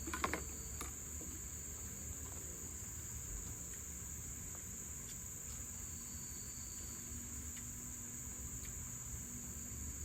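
Crickets chirring in a steady high-pitched drone, with a low steady rumble underneath. A short clatter sounds about a quarter second in, followed by a few faint ticks.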